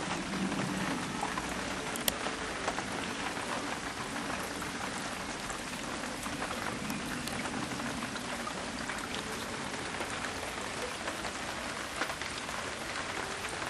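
Steady rain falling, an even patter with the odd sharper drop tick.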